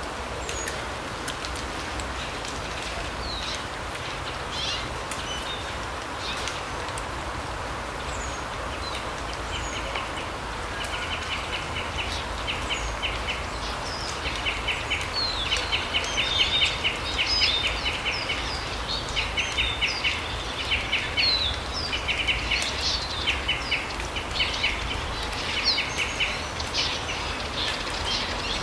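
Forest birds calling over a steady background hiss: short high chirps throughout, and from about ten seconds in, rapid trills repeating in short bursts.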